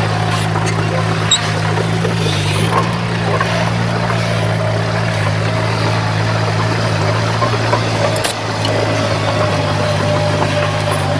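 Heavy diesel machinery engine running steadily, with a few short knocks over it.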